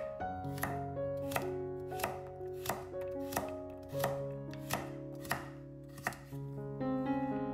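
Knife chopping food on a cutting board in about ten even strokes, roughly three every two seconds, over background music.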